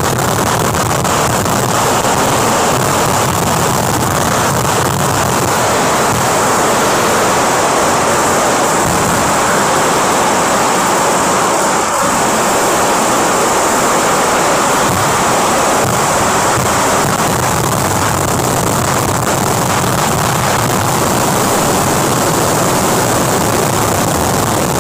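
Fireworks barrage going off without a break: dense crackling and bursts that merge into one steady, loud wall of noise.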